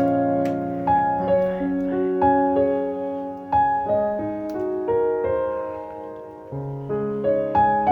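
Background piano music: a slow, gentle melody over held chords, notes struck every half second or so.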